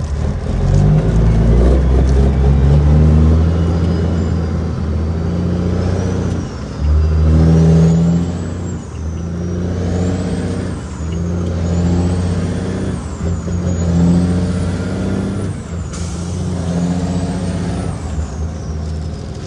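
Cat 6NZ (3406E) inline-six diesel in a Kenworth W900L running steadily under a heavy load, with a few brief dips in level. A faint high whistle rises and falls over and over in the second half.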